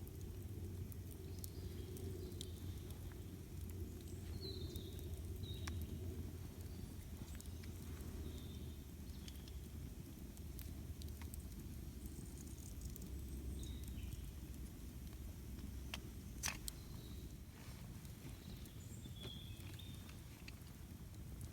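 Campfire burning over a steady low rumble, with scattered crackles and pops, one sharper pop about three-quarters of the way through. Short bird chirps come and go above it.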